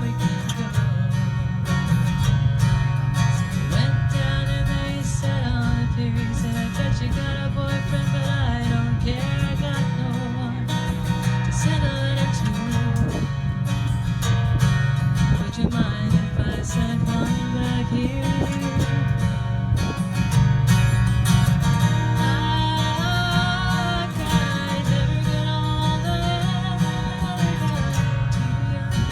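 A country song performed with acoustic guitar and a singing voice.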